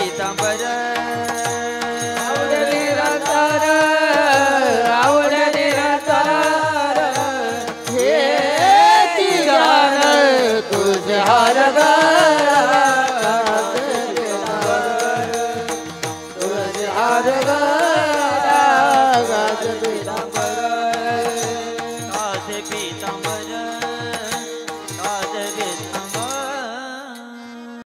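Marathi devotional bhajan music: steady held drone notes under a voice singing long notes that bend up and down without words, with regular drum strokes keeping time. The music fades out near the end.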